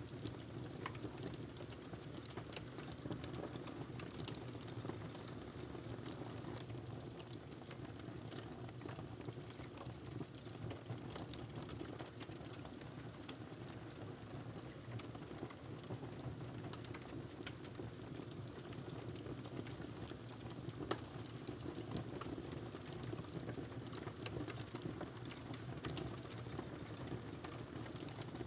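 Wood fire crackling in a fireplace: a steady low rumble with many small, irregular pops and snaps, one sharper pop about three-quarters of the way through.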